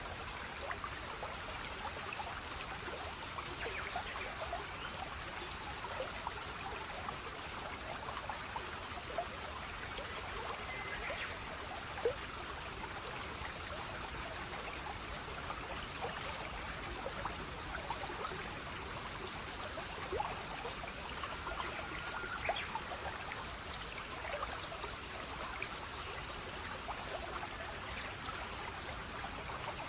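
A small stream of water trickling and babbling steadily, with small drips and plips over it and one sharper plip about twelve seconds in.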